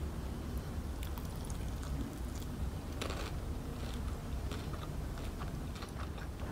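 Close-miked biting and chewing of crispy KFC fried chicken, the breaded coating giving scattered crackling crunches with a denser crunch about three seconds in. A steady low hum sits underneath.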